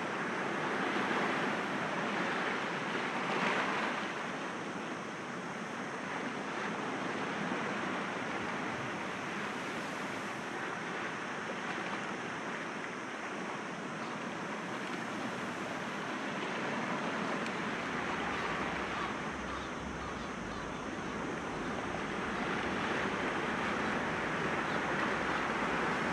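Sea waves breaking gently against rocks, a steady wash that swells and eases as each wave comes in. Wind rumbles on the microphone in the last third.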